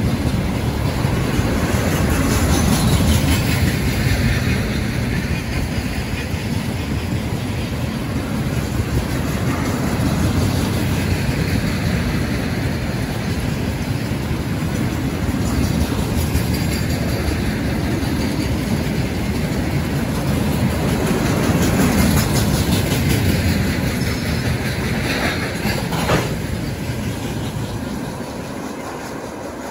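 Train passing on the track: a steady, loud rumble of wheels on rail, with a sharp click a little before the end as the sound starts to fade.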